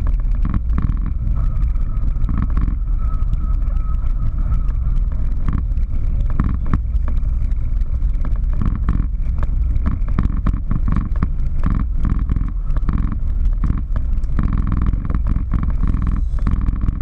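Steady low rumble inside the cockpit of a Boeing 737-800 during landing: engine and airflow noise, with many small clicks and rattles throughout.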